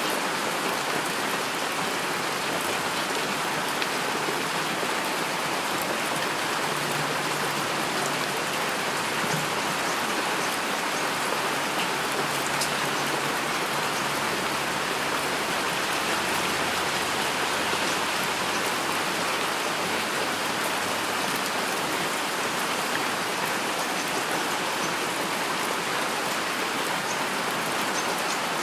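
Steady heavy rain: an even, unbroken hiss with individual drops ticking on a surface.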